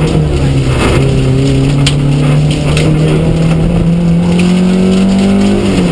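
The 1400cc four-cylinder engine of a Mark 2 Astra rally car, heard inside the cabin, pulling hard under acceleration with the revs climbing steadily through a gear. The revs drop sharply at an upshift near the end.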